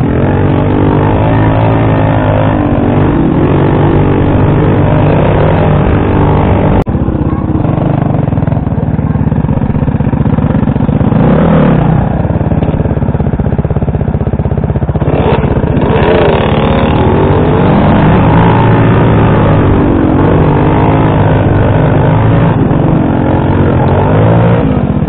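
Scooter and dirt bike engines running close by, the revs rising and falling again and again, with a brief break about seven seconds in.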